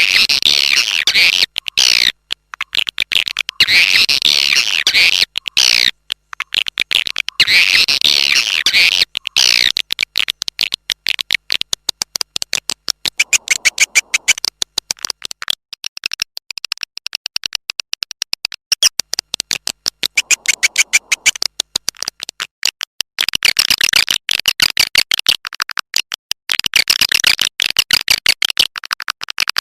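Recorded swiftlet calls of the kind played as a lure for swiftlet houses: rapid high twittering trills in bursts of a second or two with short breaks, turning into long strings of fast clicks, with dense twittering again near the end.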